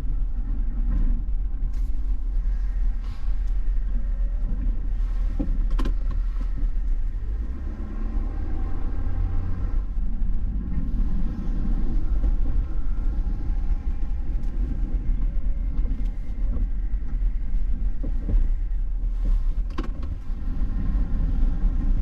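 Steady low rumble of a Ford pickup truck's engine and drivetrain, heard from inside the cab while it drives through snow, with a few sharp clicks and knocks now and then.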